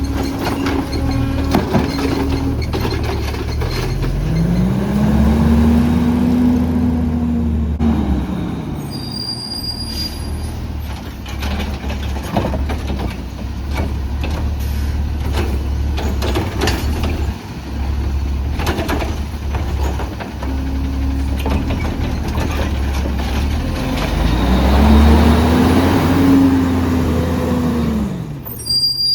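CNG Autocar ACX garbage truck's engine running, twice rising in pitch and falling back over a few seconds, about twenty seconds apart, with clanks and clicks in between.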